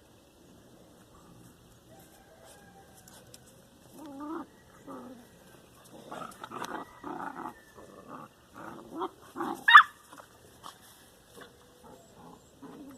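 Puppies play-fighting, letting out a quick run of short vocal sounds that starts about four seconds in, with one loud, sharp, high-pitched yelp near ten seconds.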